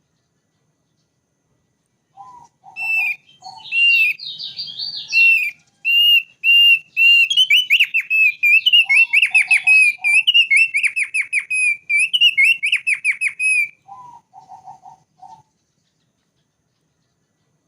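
Thick-billed white-eye (opior paruh tebal) singing: a long, rapid run of high whistled notes lasting about ten seconds, beginning about two seconds in, with short clusters of lower notes at its start, in the middle and just after it ends.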